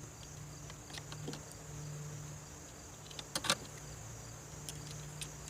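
A few small clicks and knocks from handling an electrical outlet and its wires, the sharpest two close together about three and a half seconds in, over a low steady hum.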